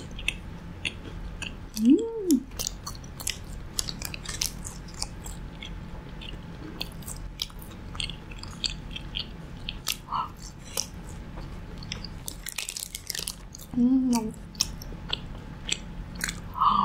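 Close-up chewing of crispy battered fried pork, with many short crisp crunches. A short closed-mouth hum comes twice, about two seconds in and near the end.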